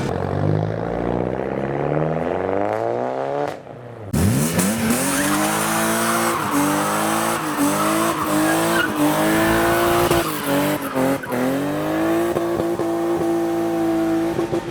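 Car engine revving hard with tyres squealing. The revs climb over the first few seconds, then after a brief drop about four seconds in they snap up and are held high with repeated short dips.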